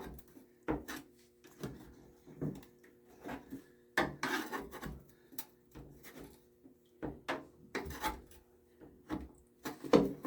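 Irregular clicks, knocks and rubbing as the condensate collector and its hoses are handled and worked loose inside a Noritz tankless water heater, over a faint steady hum.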